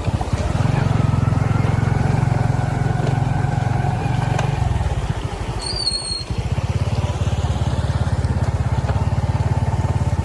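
Motorcycle engine running, its level dropping briefly about halfway through and picking up again.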